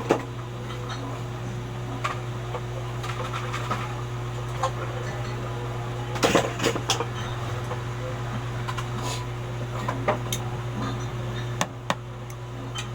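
Small hand tools clicking and tapping on a metal eyeglass frame while the nose pad is removed before soldering, a few scattered sharp clicks over a steady low hum.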